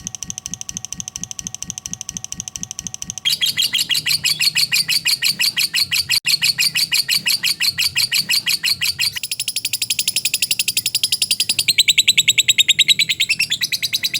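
Lovebird 'ngekek': a long, unbroken run of rapid, high chattering chirps, many per second. The tone of the chatter shifts about three seconds in and again near the end.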